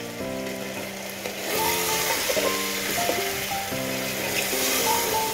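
Mutton and onions sizzling in hot oil in an aluminium pressure cooker while a metal spoon stirs in freshly added ground chilli and turmeric. The sizzle grows louder about a second and a half in. Background music with held notes plays throughout.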